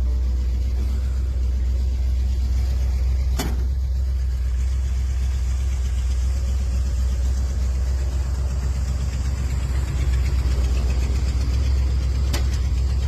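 Dodge Coronet 500's 440 big-block V8 idling with a steady low rumble. There is a sharp click about three seconds in and another near the end.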